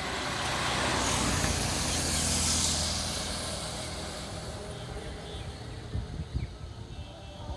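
A road vehicle passing close by on the bridge, its engine and tyre noise swelling to a peak about two seconds in and then fading away. A few low thumps follow near the end.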